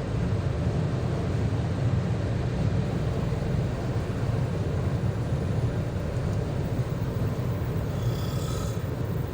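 Steady low rumble of a car on the move, the drone of engine and tyres on the road.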